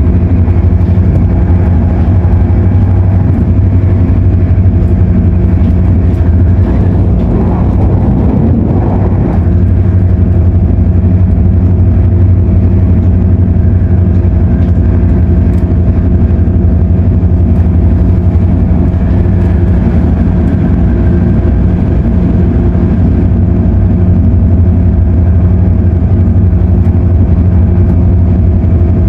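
Cabin noise of a CAF-built MTR Airport Express train running between stations: a steady, loud hum with several held low tones, from the train's running gear and its noisy air conditioning. There is a brief swell of rougher noise about eight seconds in.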